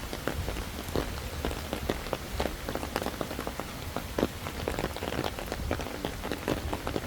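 Irregular patter of many small taps and clicks, several a second, over a steady low rumble.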